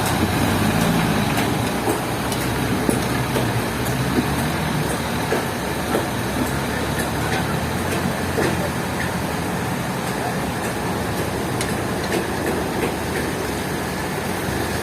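Sawmill machinery running steadily, with scattered light knocks.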